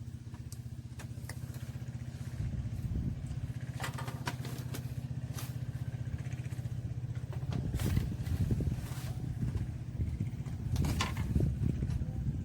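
A small engine running steadily at a low, even pitch, cutting in abruptly and getting somewhat louder partway through, with a few sharp clicks and knocks over it.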